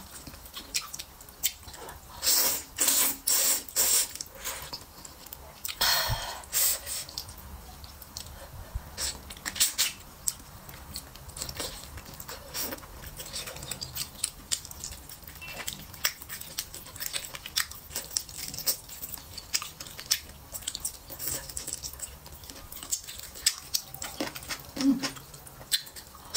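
Close-miked chewing of wheat noodles and braised pig's trotter: wet mouth clicks and smacking throughout, with a run of louder bursts about two to four seconds in and another around six seconds.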